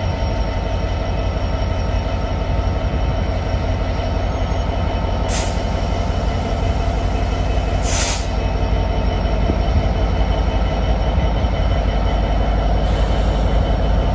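A train running close by at a station platform: a loud, steady low rumble with several held tones, growing slightly louder, and two short hisses about five and eight seconds in.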